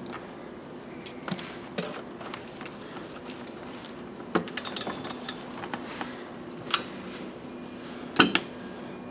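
Scattered clicks, clinks and knocks of hand tools and hard plastic car door trim being worked on, the loudest a quick double knock near the end, over a steady low hum.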